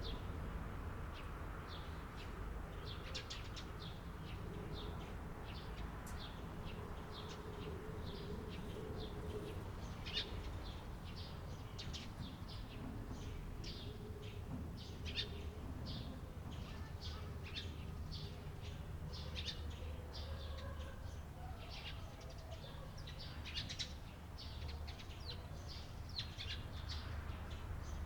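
Eurasian tree sparrows chirping: many short, high chirps at irregular intervals, some in quick clusters, over a steady low background rumble.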